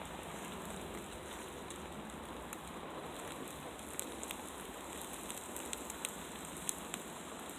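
Steady rain falling in woodland, with scattered sharp clicks that come more often in the second half.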